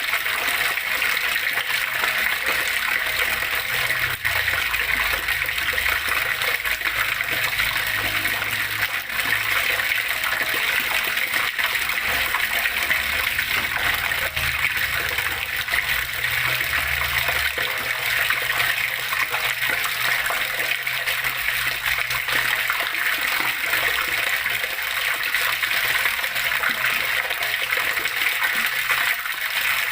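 Water flowing and splashing steadily, a continuous rush with no breaks. A low rumble comes in underneath for a stretch in the first half.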